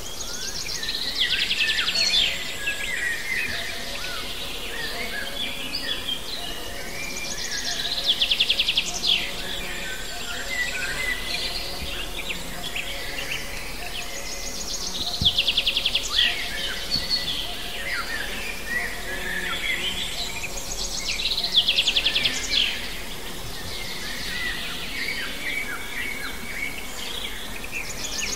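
Songbirds singing. One bird repeats a short phrase that opens with a rapid high trill, about every six to seven seconds, while other birds chirp in between.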